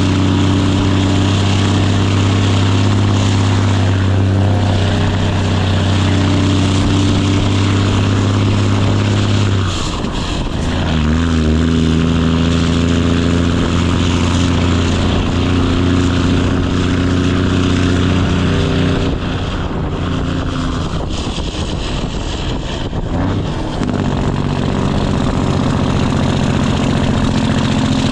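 Straight-piped Cummins ISX diesel in a Kenworth W900 running under load with a loud, steady drone. Its note breaks off briefly and resumes at a slightly different pitch about a third of the way in, and dips and recovers once more later.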